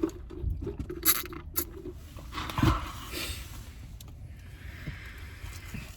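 Handling noises: two sharp clicks about a second in, a dull bump near the middle, and faint scraping.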